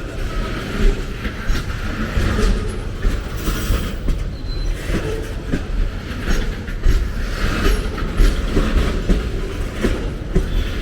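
Train cars rolling past, a steady heavy rumble with many irregular knocks as the wheels run over the rail joints.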